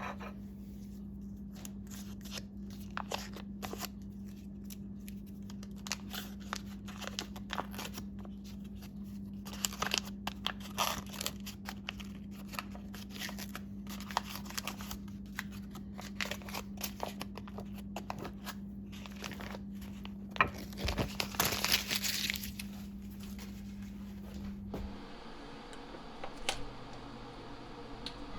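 Light crinkling and rustling with scattered small clicks and taps, louder for a moment about three-quarters of the way in, over a steady low hum that stops near the end.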